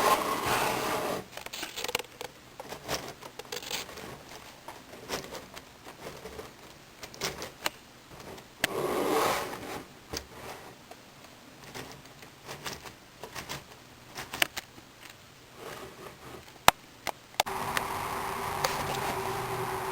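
Plastic K'nex pieces clicking, rubbing and scraping as they are handled and fitted together, with a sharp click a little before the end. Near the end a steady hum with one clear tone starts and runs on.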